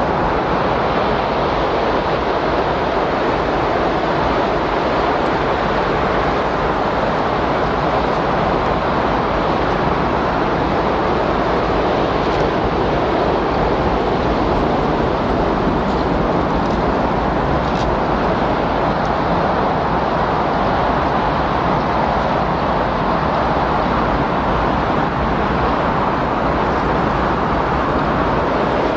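Windstorm: steady, loud blowing wind noise, a dense rush with a low rumble underneath and no gusts or breaks.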